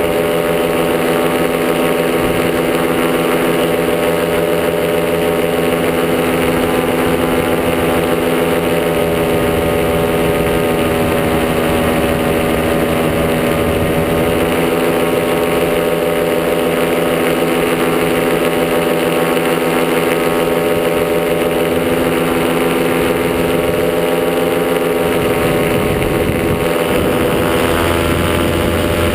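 Top80 paramotor's two-stroke single-cylinder engine running steadily under power in flight, with wind noise over it.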